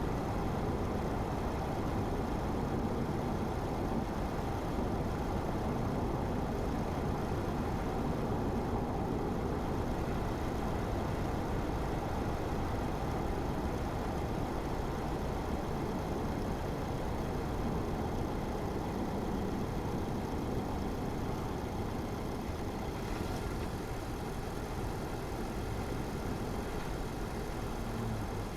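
Car driving at a steady pace: an even rush of engine and tyre noise, easing a little near the end.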